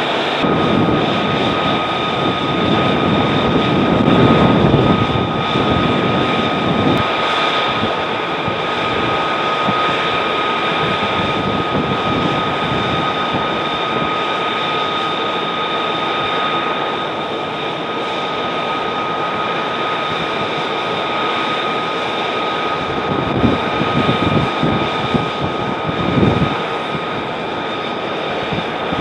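F-35 Lightning II's jet engine running with a steady high whine over a broad rush, which swells louder a few seconds in and again near the end.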